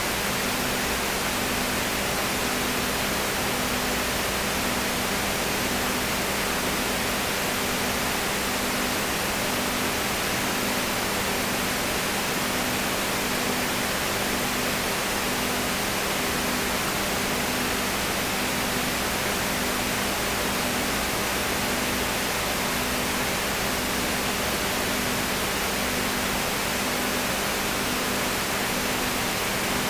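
Steady, even hiss like static, with a low hum under it that pulses about once a second.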